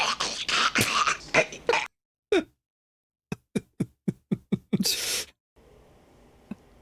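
A man's voice making a run of comic mouth noises, like beatboxing: breathy hissing and clicking, a short pause, then a quick string of clipped yelps, each dropping in pitch, ending in a sharp hiss.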